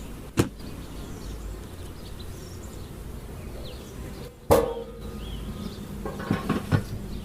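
Honey bees buzzing in a steady low hum around an opened hive, with a sharp click early and a loud knock with a short ring about four and a half seconds in, then a few lighter knocks, as hive parts are set back in place.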